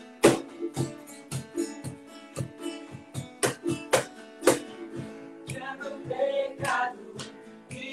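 Acoustic guitar strummed in a steady rhythm, each strum sharp and percussive, as the introduction to a worship song. A voice starts singing about five and a half seconds in.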